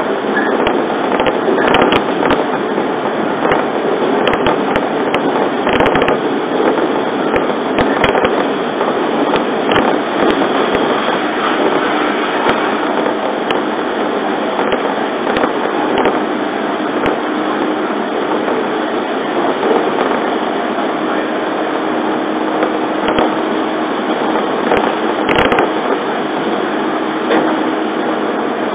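Running noise heard inside a JR 115 series electric train at speed: a steady rumble of wheels on rail, broken by scattered sharp clicks and knocks, most in the first ten seconds and a short cluster near the end. A faint steady hum comes in about halfway through.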